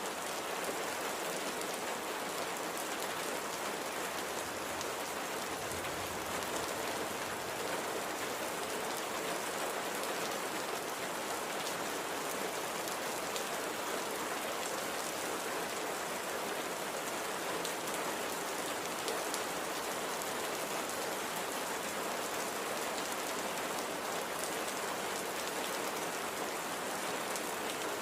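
Steady, gentle rain falling on a surface, an even hiss made of many small drop ticks.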